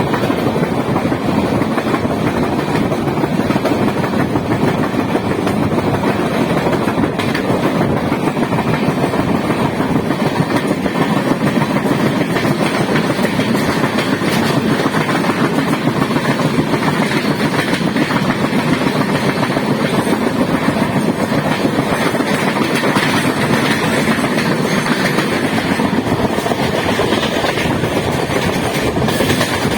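Passenger train running at speed, heard from on board: a steady, loud noise of wheels and carriage on the track.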